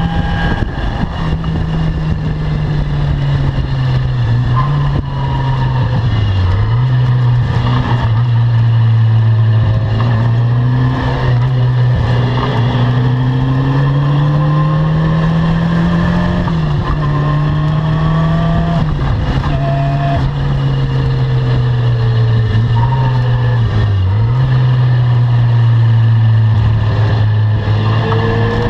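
Caterham Seven R300 engine driven hard on a race circuit: the engine note climbs and falls continuously with several sharp drops as it shifts gear and slows for corners. A steady rush of wind and road noise runs underneath.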